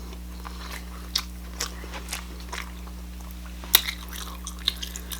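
Close-miked chewing of corn on the cob: a scattering of short wet mouth clicks and small crunches, a few seconds apart at first and closer together near the end.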